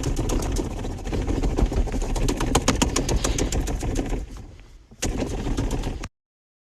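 A car engine started and running loudly, with rapid irregular popping over a low rumble. It dies away about four seconds in, comes back abruptly a second later, and cuts off suddenly.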